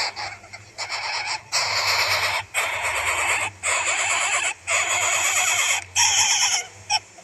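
Harsh, hissing animal calls in a run of about five bursts, each about a second long with short breaks between.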